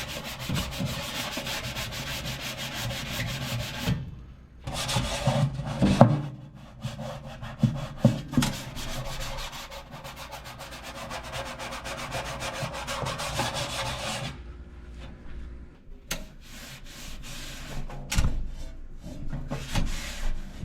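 Scrubbing baked-on grease inside a toaster oven: a steady rough rubbing that breaks off briefly about four seconds in, then goes on with a few knocks. For the last several seconds it turns quieter and stop-start, with scattered clicks.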